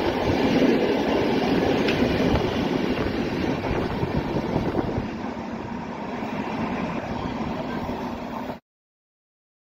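Freight train of car-carrier wagons rolling past close by, the steady noise of its wheels running on the rails, easing a little after about five seconds as the last wagons go by. Cuts off suddenly about a second before the end.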